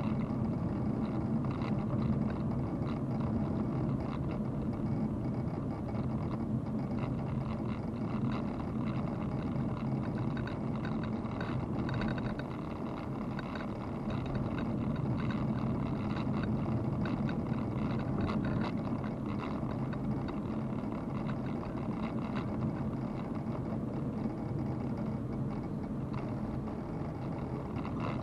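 Car running steadily, with a constant low engine hum under road and wind noise.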